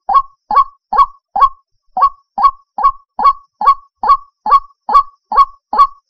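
White-breasted waterhen (ruak-ruak) calling from a lure recording: short, loud, hoarse notes repeated monotonously about two and a half times a second, with one beat missed about a second and a half in.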